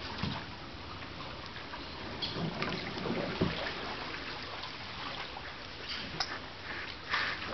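Canoe paddles dipping and pulling through the water, with trickling drips and a few sharper splashes.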